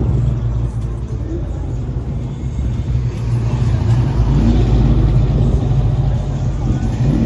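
Car engine running with a steady deep note, getting somewhat louder about halfway through.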